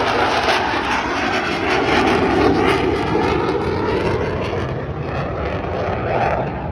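Military fighter jet flying past, a loud, steady rush of jet engine noise that builds and then eases off near the end.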